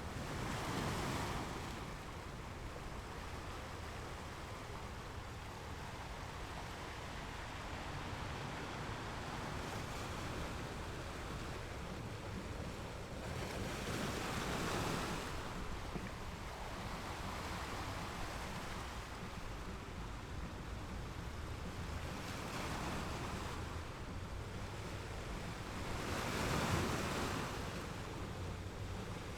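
Surf: waves breaking and washing in, a steady rush that swells up three times, about once every thirteen seconds.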